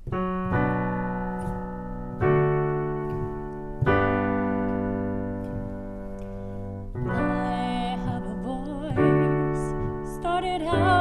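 Piano introduction: a series of sustained chords, each struck and left to ring. A singing voice comes in over the piano about seven seconds in.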